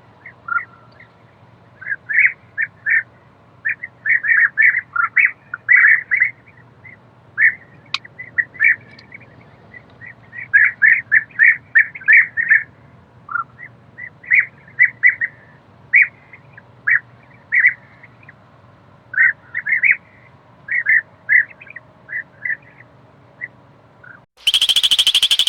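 A small bird chirping, short sharp chirps, some single and some in quick runs. About a second before the end a different loud, high-pitched sound cuts in.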